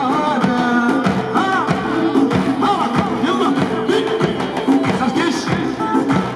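Amplified live Kurdish wedding music: a melody with gliding, ornamented notes over a steady drum beat.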